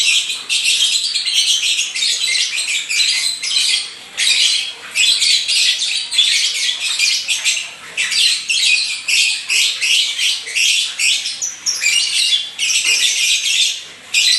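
Pet lovebird in full 'gacor' song: long runs of high-pitched chattering and squawks, nearly unbroken, with a few brief pauses.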